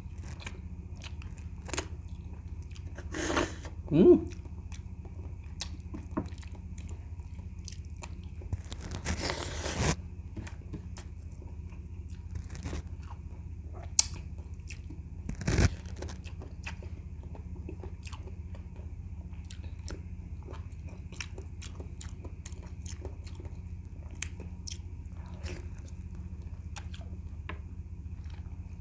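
Close-miked eating of boiled goat trotters by hand: wet chewing, lip and tongue clicks, and sucking on the bones and fingers. There are longer sucks about three seconds in and again about nine seconds in, and one sharp click about fifteen seconds in, over a steady low hum.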